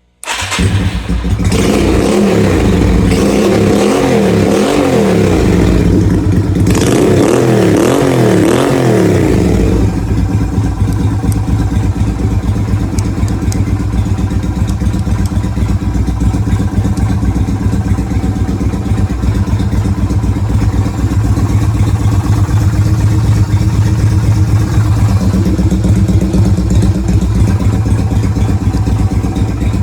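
Yamaha Virago 250's air-cooled V-twin engine starting up, revved up and down repeatedly for about the first ten seconds with a short dip about six seconds in, then settling into a steady idle.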